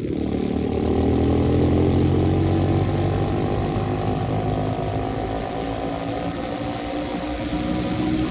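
125cc dirt bike engine running, its pitch rising over the first couple of seconds as it accelerates, then holding fairly steady.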